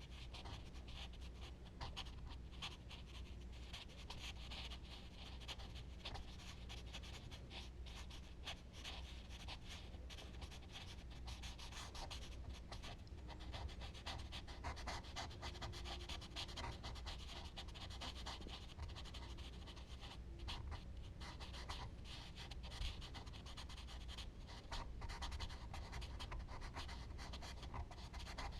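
Charcoal stick and blending tools rubbing and scratching on paper in quick, irregular strokes, faint, over a steady low hum.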